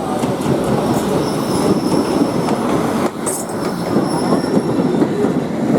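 Steam-hauled passenger train's carriages rolling on the rails: a steady loud rumble with thin high metallic squeals of the wheels coming and going.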